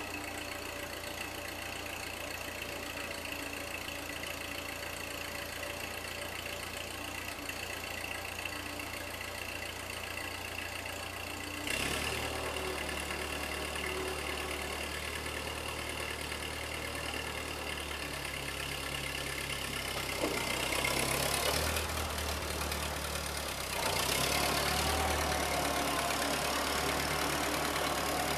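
Ford 9N tractor's four-cylinder flathead engine running steadily, stepping up in loudness and changing its note about twelve seconds in, and again around twenty and twenty-four seconds.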